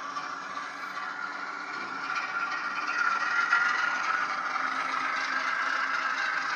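Model train running along the layout's track: a steady rattle and scrape of wheels and motor, growing louder about two seconds in as it comes closer.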